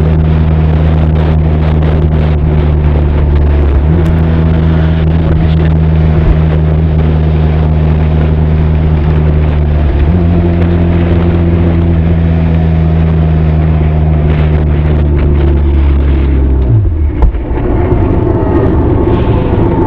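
Benelli TRK 502 parallel-twin engine and exhaust running at a steady cruise, picked up from inside a saddlebag. The engine note shifts slightly a couple of times, then drops suddenly near the end and carries on lower and rougher.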